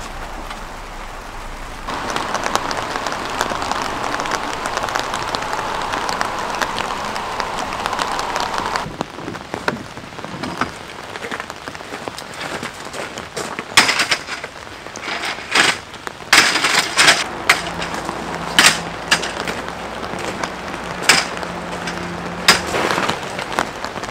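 Steady rain falling, louder from about two seconds in until about nine seconds in. In the second half, a run of sharp clicks and knocks as camping gear such as a folding chair is handled and set out.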